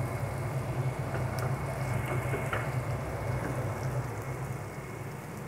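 Onion and spice sauce simmering and sizzling in a small saucepan around two boiled eggs: a steady crackling hiss over a low hum, easing slightly near the end.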